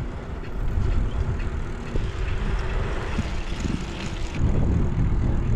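Wind buffeting a camera microphone on a moving bicycle, a heavy irregular rumble, with tyre and road hiss that swells about halfway through.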